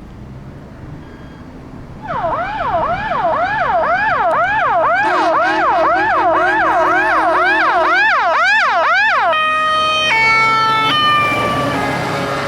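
Emergency vehicle siren starting about two seconds in with a fast yelp, quick rising-and-falling sweeps about two a second, with a second yelp overlapping for several seconds; near the end it switches to a two-tone high-low pattern.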